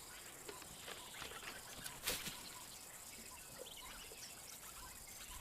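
Faint outdoor ambience with scattered short bird chirps and one brief sharp click about two seconds in.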